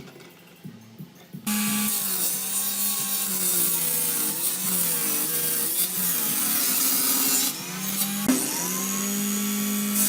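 A handheld electric power tool starts about a second and a half in and runs against its work. Its motor hum wavers in pitch with the load, sags briefly near the end and picks up again.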